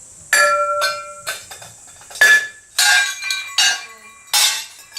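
Wood-fired ceramic pieces clinking and knocking against each other and against hard surfaces as they are handled out of the kiln. About ten sharp strikes in irregular succession, several leaving a short clear ringing tone like struck pottery.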